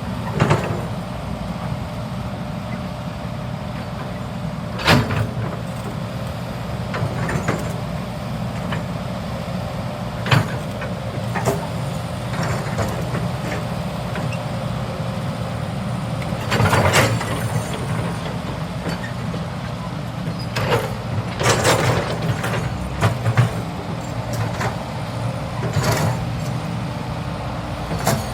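Diesel engine of a hydraulic excavator running steadily, with scattered sharp knocks and clanks.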